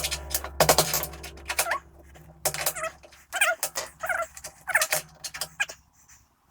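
About five short animal calls, each well under half a second, with bending pitch, over a low steady hum. A brief rapid rattling comes about half a second in.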